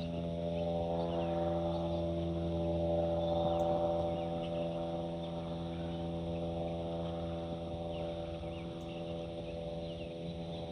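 Aircraft engine drone made of several steady tones, swelling about three to four seconds in and then slowly fading as it passes. Small birds chirp throughout.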